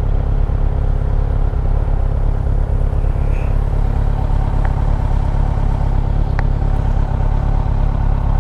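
Motorcycle engine idling steadily at a standstill, a constant low rumble.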